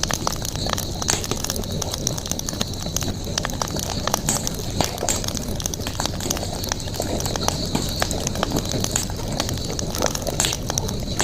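Campfire crackling, with many irregular sharp pops and snaps, over a steady high-pitched hum.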